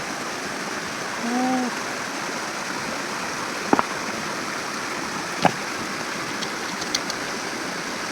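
Stream water flowing steadily. Over it are a short pitched hum about a second in, a sharp double knock near the middle and another single knock a couple of seconds later, then a few faint ticks near the end.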